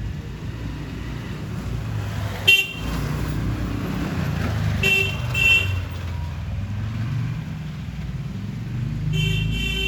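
Street traffic with a steady low rumble of engines and short vehicle-horn toots: one sharp blast about two and a half seconds in, two more around the middle, and a quick double toot near the end.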